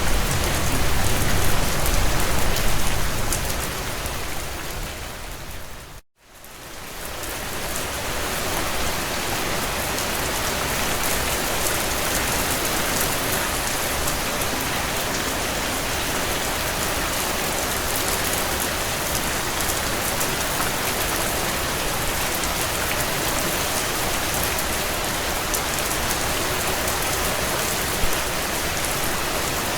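Heavy rain drumming on a tin roof, a steady dense hiss of drops. About six seconds in it fades to silence for a moment and swells back to full strength.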